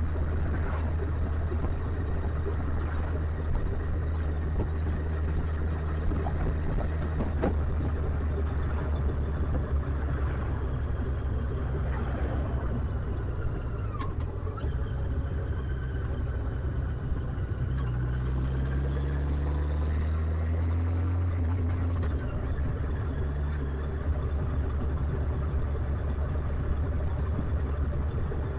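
Motorcycle engine running steadily on the move, its note climbing briefly about two-thirds of the way through.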